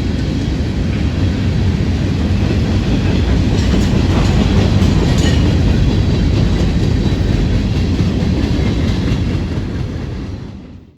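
Train cars rolling past on the rails, with a steady low rumble and wheel clatter and a few faint squeals. The sound fades out near the end.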